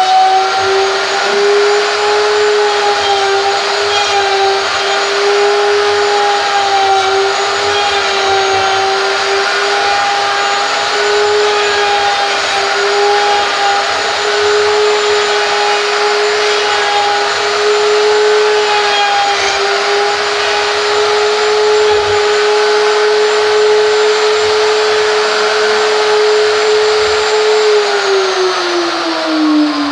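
Wood router with a straight bit running at full speed as it is slid along a sled to trim the end of a wooden post flat. It is a loud, steady high whine and is switched off near the end, its pitch falling as it winds down.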